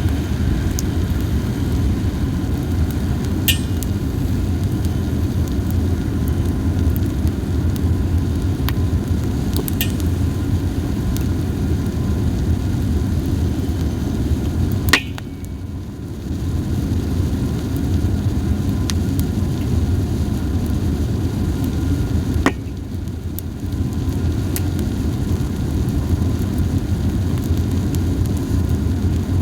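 Fire of dried hinoki cypress cones burning with a steady low rumble and only a few sharp crackles, spaced several seconds apart: the cones are burning poorly and pop little.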